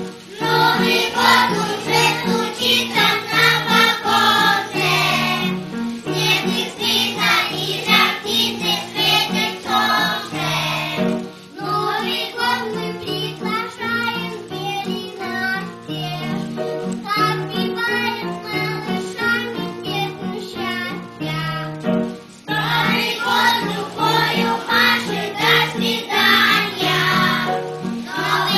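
A child singing a children's song with instrumental accompaniment: a steady bass line and chords, the sung phrases breaking off briefly twice.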